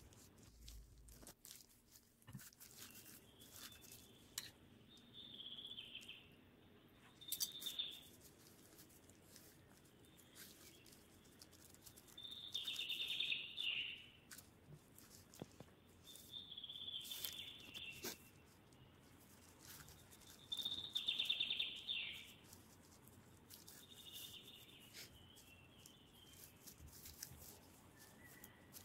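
Birds chirping in repeated short phrases, each about a second long, every few seconds, with faint scattered clicks and taps.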